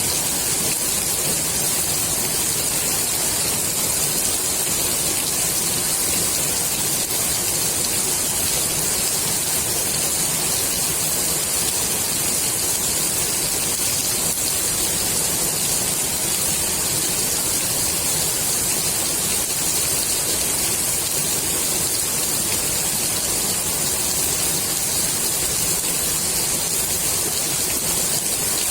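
Steady heavy rain falling on the water surface of a swimming pool: an even, unbroken hiss.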